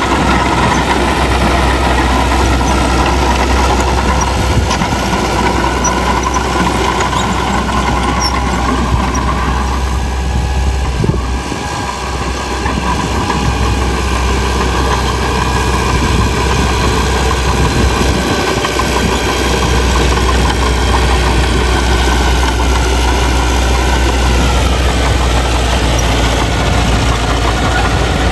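Heavy earthmoving machinery's diesel engine running steadily, dipping briefly about eleven seconds in.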